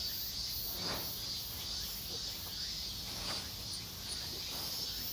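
Steady high-pitched chorus of insects chirring, with faint distant voices in the background.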